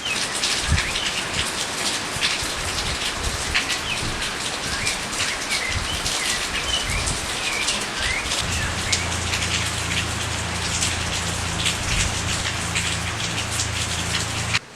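Steady rain falling, with many individual drops pattering close by, while a bird chirps on and off through it. A low steady hum joins about halfway through, and everything cuts off abruptly just before the end.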